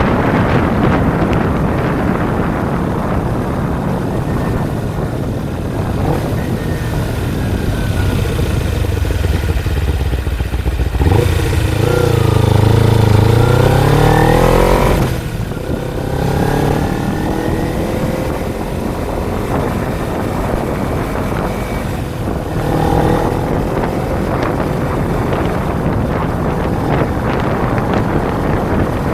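Kawasaki Ninja 250's parallel-twin engine running under way, with heavy wind noise on the microphone. A little over a third of the way in the engine revs up for a few seconds, rising in pitch and getting louder, then drops off sharply.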